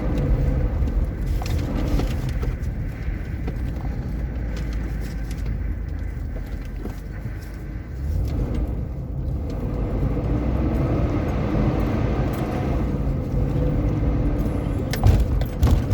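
Four-wheel-drive vehicle driving over desert sand: a steady engine and tyre rumble that dips briefly about eight seconds in and then picks up again.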